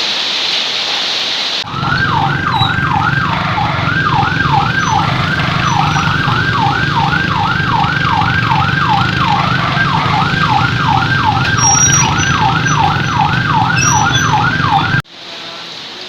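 Heavy rain hissing, then a siren, sounding over a low hum, that sweeps down in pitch over and over, about twice a second. It stops abruptly near the end, leaving the rain.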